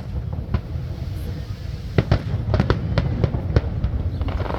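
Aerial fireworks going off: a quick run of sharp bangs and crackles, thickest from about two seconds in, over a continuous low rumble.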